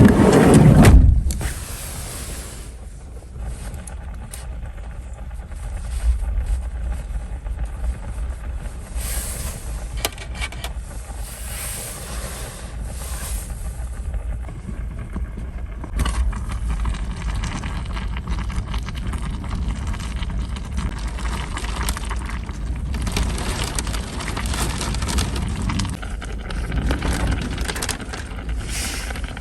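Strong wind blowing in a snowstorm: a steady low rumble with surges of hiss, and a loud gust in the first second or so.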